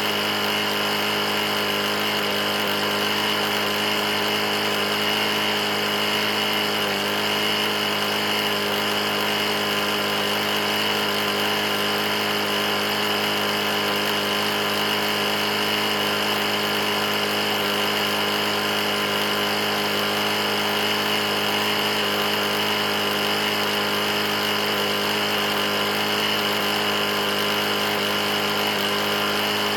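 Briggs & Stratton E450 lawn mower engine running steadily at constant speed, an engine with a bad knock after having been run low on oil.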